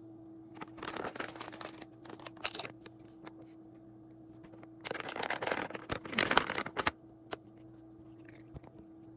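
Packaging crinkling and rustling as it is handled, in two bouts about two seconds each, with a few single crackles after. A steady low hum runs underneath.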